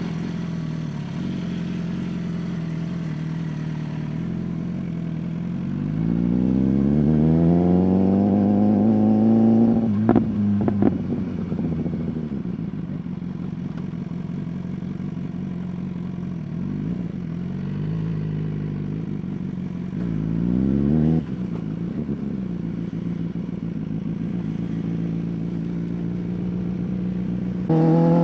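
BMW S1000RR's inline-four engine through an Arrow exhaust, idling steadily, then revved up slowly and dropping back to idle with a couple of sharp cracks about ten seconds in. A shorter rev follows around twenty seconds in and cuts off sharply, and the sound jumps louder at the very end.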